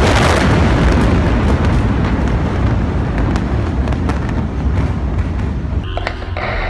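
Rumble of a large explosion, loud from a sudden blast and dying away slowly, with scattered crackles and pops through it. Near the end it cuts to a different sound.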